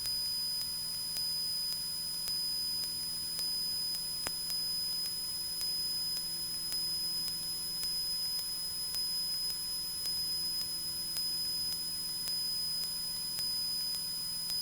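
Steady in-flight drone of a Cessna 172's engine, muffled as heard through the aircraft's intercom audio, with an even hiss and a steady high whine. One faint click about four seconds in.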